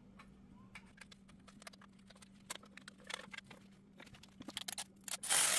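Scattered light metallic clicks and taps of small bolts and hand tools as a brake dust shield is bolted onto the steering knuckle, then a louder scraping rush near the end.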